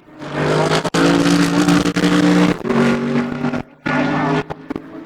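GT3 race car engine running hard at high revs. Its pitch drops suddenly a little after two and a half seconds, and the sound breaks off briefly just after three and a half seconds.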